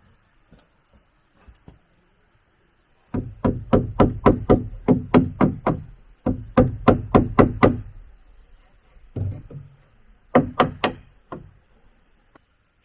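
Rapid repeated hard strikes on wood, about four a second, in two quick runs, then a few more blows after a short pause.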